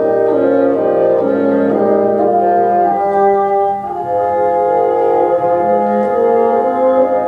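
A bassoon ensemble playing sustained chords together, several bassoons holding and changing notes in harmony.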